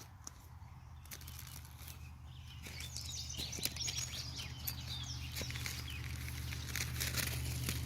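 Outdoor ambience: a steady low hum, with rustling and crackling and a few faint bird chirps joining about three seconds in and growing louder.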